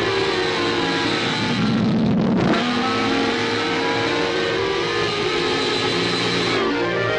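Cartoon orchestral soundtrack played backwards. About two seconds in, a reversed sound effect swells up and cuts off abruptly.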